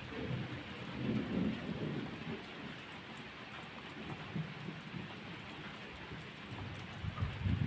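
Steady rain falling, with low rolls of thunder swelling about a second in and again near the end.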